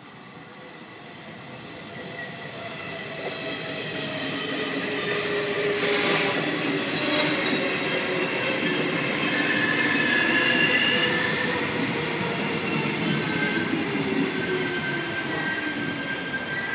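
Trenitalia passenger coaches rolling past the platform. The sound builds over the first six seconds and then stays loud, with several high, steady squealing tones from the running gear. There is a brief hiss about six seconds in.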